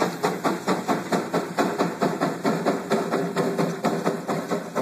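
A 40 hp Case single-cylinder steam traction engine's exhaust chuffing sharply from the smokestack at about four beats a second as it climbs an incline under load, hand-throttled with the governor belt off. A steady steam hiss runs underneath.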